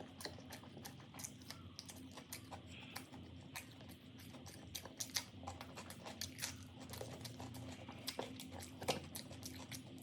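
Close-up eating sounds: soft chewing with many small, irregular wet mouth clicks.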